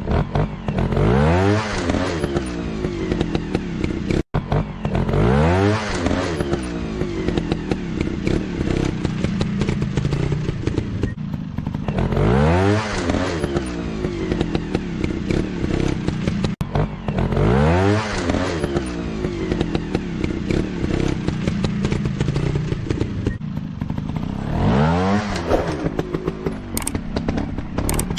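Dirt bike engine revving again and again, the pitch climbing and falling back every several seconds between stretches of steady running. The sound drops out for an instant twice.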